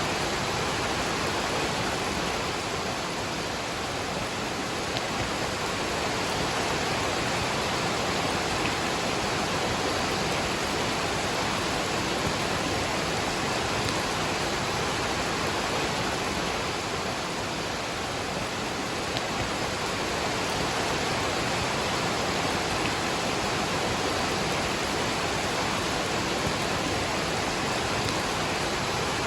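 Steady, unbroken rush of a waterfall mixed with falling rain.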